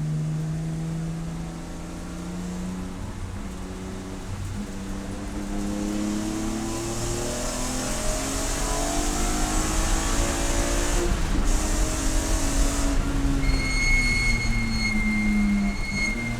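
Race car engine running hard, its pitch climbing steadily as the car accelerates and then falling away as it slows, with a rising rush of wind and road noise at speed. A steady high-pitched squeal sounds over the last few seconds as it slows.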